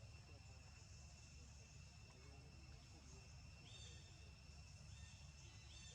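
Near silence: faint outdoor ambience with a steady high insect drone and low rumble, and a few short high chirps about two-thirds of the way through and near the end.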